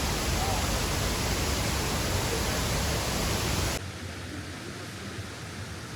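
Steady rush of a waterfall, falling away abruptly to a fainter rush of water about four seconds in.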